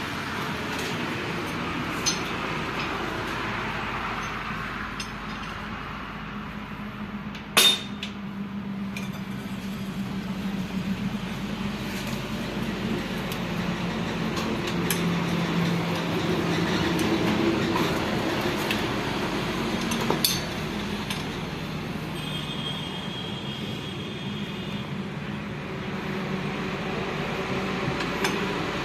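Metal clinking of spanners and gearbox parts being worked on, with a sharp metallic clank about seven and a half seconds in, over a steady low hum.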